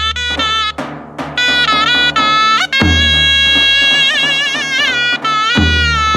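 Zurna playing a loud, reedy folk melody with long held notes and trilling ornaments, over deep drum beats.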